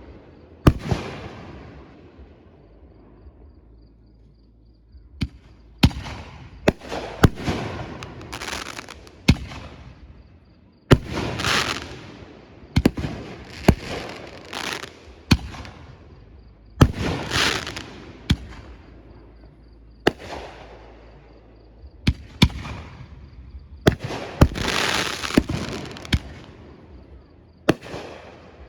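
Fireworks going off one after another: sharp bangs, many followed by a hissing tail that fades over a second or two. There is a lull of about three seconds starting about two seconds in, then the bangs come thick and fast again.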